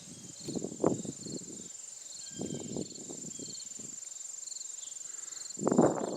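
Several short runs of clucking, the loudest near the end, over insects trilling steadily with a regular chirp a little under twice a second.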